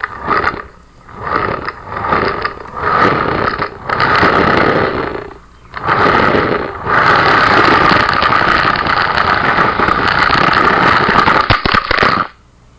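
Homemade RC car's electric drive motor and gear train whining, heard close up from a camera mounted on the car. It runs in short bursts of throttle for the first few seconds, then runs steadily for about six seconds before cutting off suddenly.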